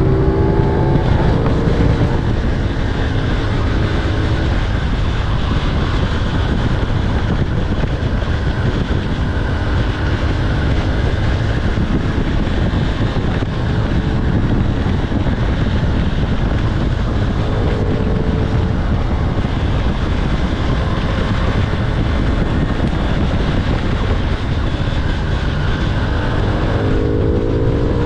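CFMOTO 450SS parallel-twin sport bike being ridden, its engine running under heavy wind rush on the bike-mounted camera's microphone. The revs climb briefly just after the start and again near the end.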